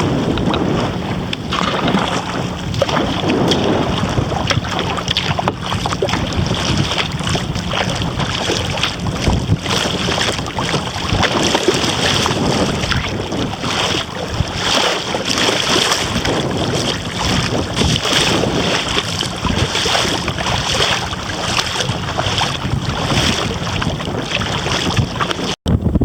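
Wind buffeting the camera microphone, with water splashing and lapping around a kayak as it is paddled. There is a brief dropout near the end.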